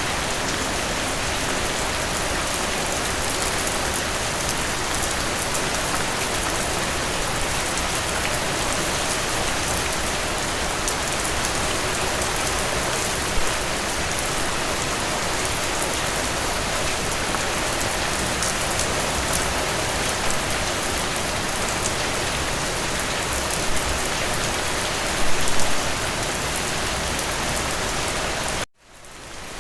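Steady rain falling, an even hiss with scattered drop ticks and a few louder splashes. Near the end the rain cuts out suddenly and fades back in.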